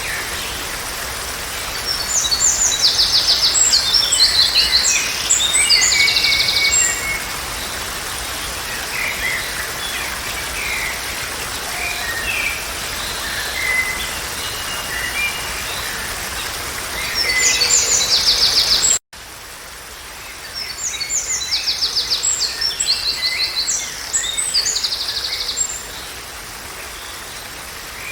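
Songbirds singing in repeated phrases of quick high trills and chirps, over a steady background hiss. About two-thirds of the way through, the sound cuts out for an instant and resumes with a quieter background and more trilled song.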